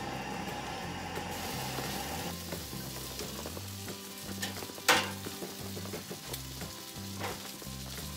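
Offal (horumon) sizzling as it goes into a small frying pan on a camping gas stove and is stirred, with a sharp clack of the tongs against the pan about five seconds in.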